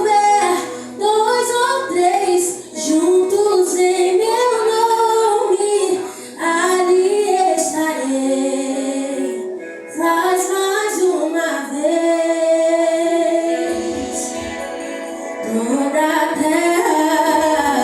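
A woman singing a Portuguese worship song over music, in phrases with long held notes.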